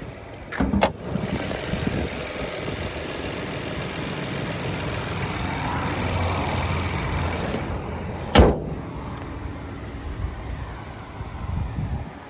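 A Chevrolet TrailBlazer's 1.3 L three-cylinder engine runs steadily. A sharp knock comes a little under a second in, and a louder one a little past eight seconds.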